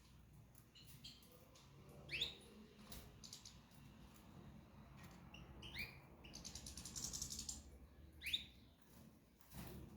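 Small cage birds chirping faintly: a few short sweeping calls a few seconds apart, with a brief trill in between. There are also a few soft clicks.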